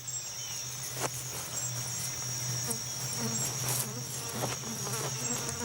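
Rainforest insect chorus: a steady, high-pitched buzzing drone, with a low steady hum beneath it.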